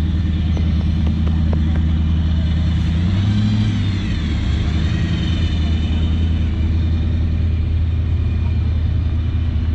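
A vehicle engine running steadily at a constant low pitch, with a high wavering tone rising and falling about three to five seconds in.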